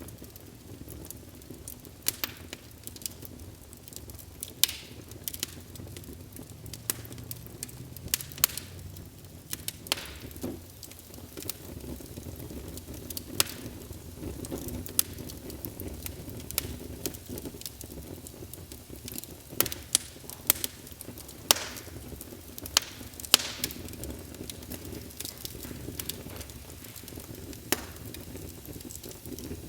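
Wood fire burning in a fireplace: a steady low rumble with scattered sharp crackles and pops at uneven intervals.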